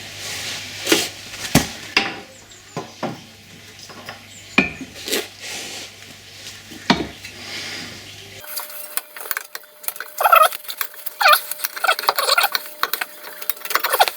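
Metal clinks and knocks as a new driveshaft is worked into the gearbox opening, a scattering of separate sharp knocks. After about eight seconds the background changes and the clinking and scraping become faster and denser.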